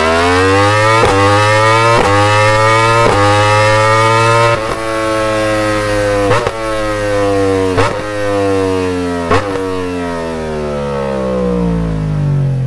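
Yamaha R-series sport bike engine and exhaust running, its note climbing in pitch over the first few seconds and then slowly falling away. Sharp cracks come through it every second or two.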